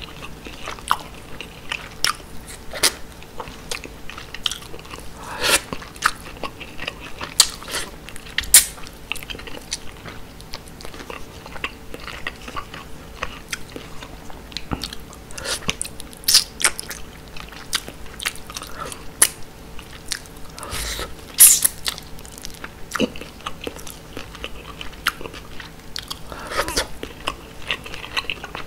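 Close-miked chewing of grilled mackerel and rice, with many sharp wet clicks and smacks at irregular intervals over a faint steady hum.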